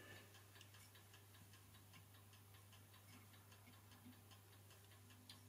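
Faint, rapid ticking of a clock's platform escapement, about four or five ticks a second. The clock will not run on its own, which the restorer puts down to a badly worn pinion.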